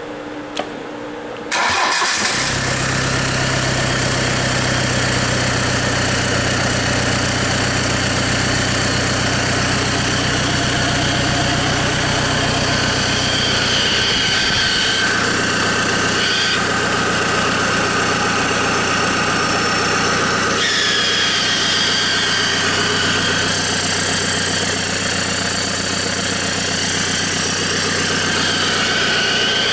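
Hyundai/Kia J3 four-cylinder diesel engine starting about a second and a half in, then idling steadily.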